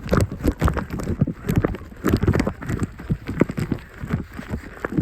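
Wind buffeting the microphone, with irregular thuds and scuffs throughout, like players running and colliding on wet ground.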